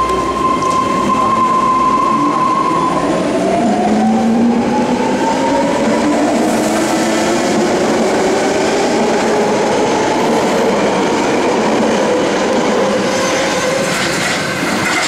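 BART train pulling out of the station: a steady tone for the first few seconds, then the electric propulsion whine rises slowly in pitch as the train accelerates over the rumble of its wheels on the rails.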